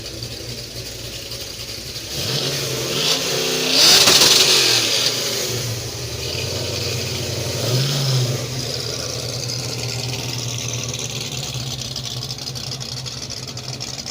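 Dodge Challenger V8 idling, then revved up a couple of seconds in to its loudest near four seconds, blipped once more about eight seconds in, and settling back to a steady idle.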